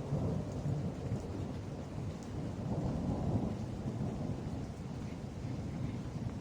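Rolling thunder rumbling low and long over steady rain; the rumble swells in just before the start and keeps going throughout.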